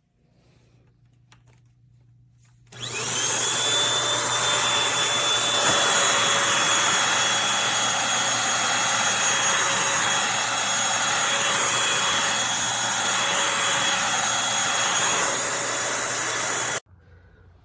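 Eureka Blaze cordless stick vacuum switching on about three seconds in, its motor whine rising quickly to speed. It then runs steadily with a high whine over a loud rush of air, and cuts off abruptly near the end.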